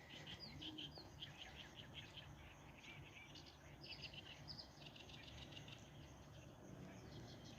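Faint chirping of small birds, many short quick chirps over a low steady hum.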